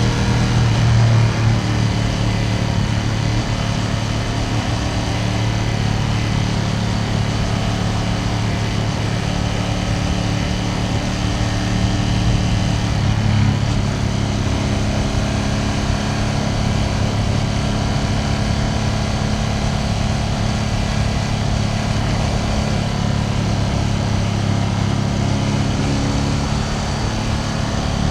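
Ducati Panigale V2S twin-cylinder engine and exhaust running at a steady cruise, heard from on the bike while riding. The engine note shifts briefly about halfway through, then settles back to a steady pull.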